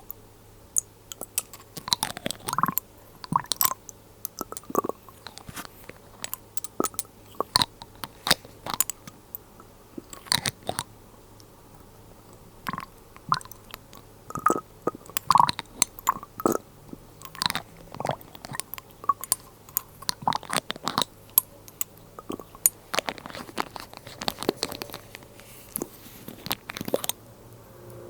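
Glass dropper bottles and their lids being handled close to the microphone: irregular sharp clicks and taps, several a second in places, some with a brief glassy ring.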